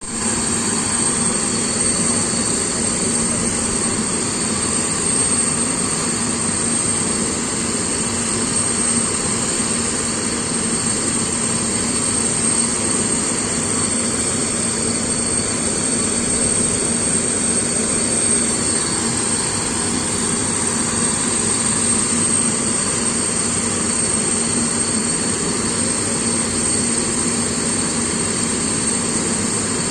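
Antonov An-124 cargo aircraft's turbines running steadily on the ground: a continuous rumble with a steady high whine.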